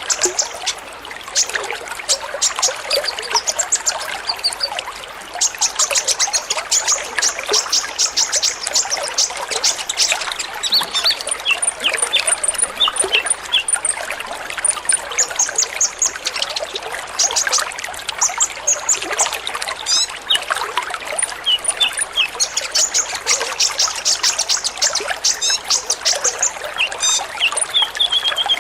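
A flock of sunbirds chirping and twittering fast and high, over a steady trickle of running water.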